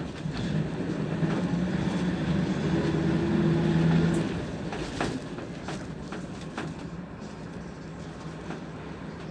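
PAZ 32054 bus engine pulling under acceleration, rising in pitch and loudness for about four seconds. It then eases off to a quieter run, with a few sharp rattles from the bus body.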